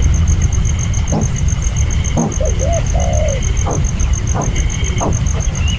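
Birds giving short, low, looping calls several times, over a steady low rumble and a rapid high-pitched pulsing of about eight pulses a second.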